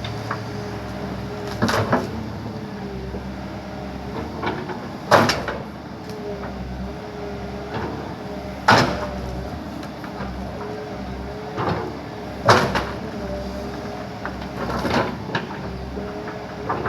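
Backhoe engine running steadily while the machine crushes a tree, with sharp cracks and snaps of breaking wood every few seconds.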